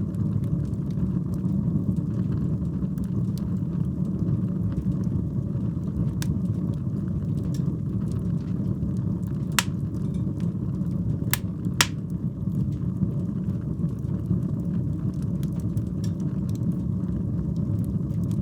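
Wood fire burning in a fireplace: a steady low rumble of flames with scattered sharp crackles, and three louder pops about ten to twelve seconds in.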